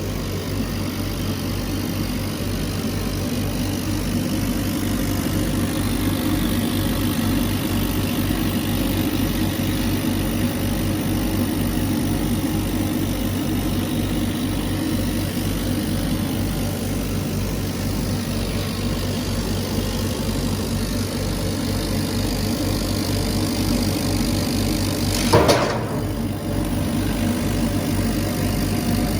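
CNC laser cutter running while it cuts pine: a steady machine hum with a regular low throb, and one sharp click about 25 seconds in.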